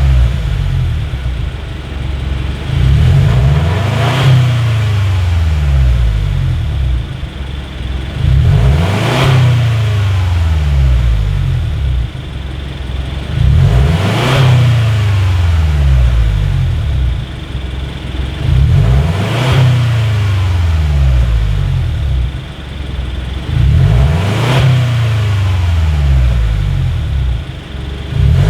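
Subaru Forester SK5's 1.8-litre turbocharged flat-four, heard through a BLITZ NUR-SPEC Custom Edition all-stainless aftermarket exhaust, revved five times about five seconds apart. Each rev climbs in pitch and falls back to idle.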